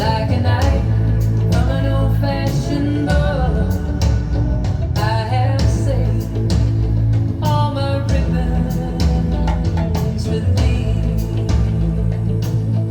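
A female vocal over bass, guitar and a steady drum beat, playing from Fostex GX250MG hi-fi floorstanding speakers in a listening room and picked up by a phone microphone at the listening position.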